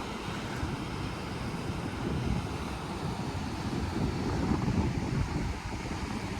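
Wind buffeting the phone's microphone, a gusty low rumble.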